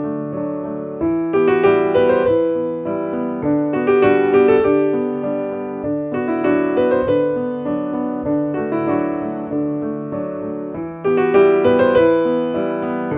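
Piano music soundtrack, a flowing run of notes with repeating phrases and louder swells.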